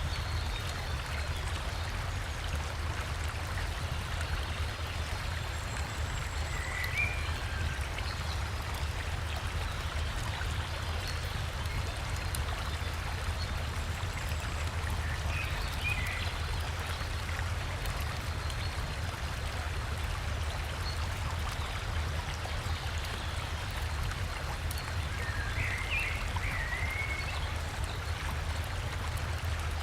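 Steady rushing of river water, with a deep low rumble under the hiss. Short bursts of bird chirping come through three times, a few seconds apart.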